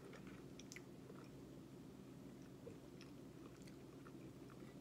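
Quiet chewing of French fries, with faint, scattered wet mouth clicks over a steady low hum.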